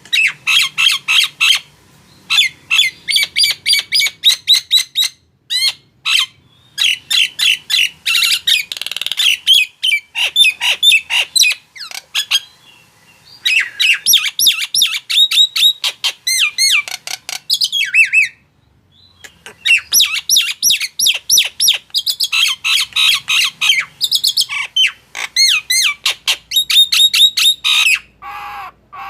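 Male Nias hill myna calling in rapid runs of loud, short, sharp notes, broken by a few brief pauses.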